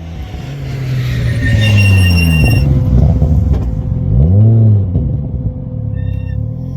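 Race car engine running loud and falling in pitch as the car slows, with a high whistle over it, then a quick rev blip that rises and falls about four and a half seconds in.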